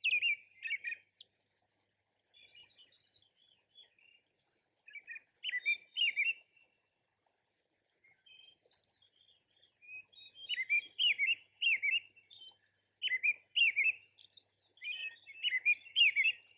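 Songbird singing: short, quick warbling phrases separated by pauses, coming more often in the second half.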